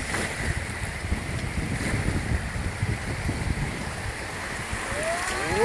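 Rushing water of river rapids around a canoe, with wind buffeting the phone's microphone in a low, fluttering rumble. A voice starts to call out near the end.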